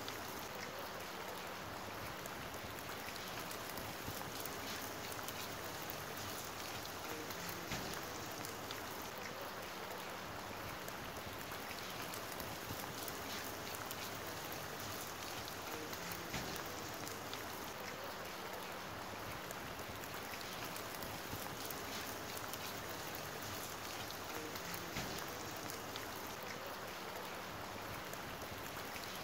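Steady light rain falling on a wet paved road and puddles: many small drop ticks over an even hiss.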